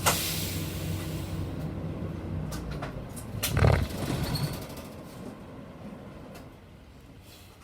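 City bus standing with its diesel engine idling, a sharp hiss of air at the start. About three and a half seconds in comes a loud thud with a burst of air, then the engine hum dies away and the cabin goes quiet.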